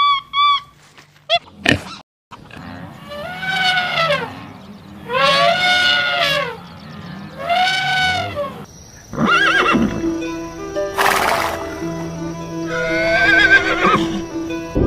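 A horse whinnying: a series of long neighs, each rising and then falling in pitch, three in a row and then more over a steady background tone.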